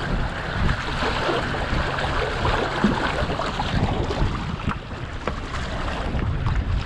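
Wind buffeting the microphone over the rush and splash of water along the hull of a small sailboat under sail.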